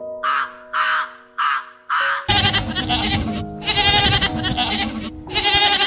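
A crow cawing four times in quick succession over soft background music, then from about two seconds in a louder, wavering animal bleating over the music.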